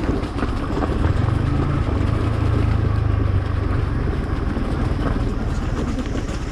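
Yamaha MT-15 motorcycle's single-cylinder engine running under way, its low note growing stronger about a second in and easing a few seconds later, with a steady hiss over it.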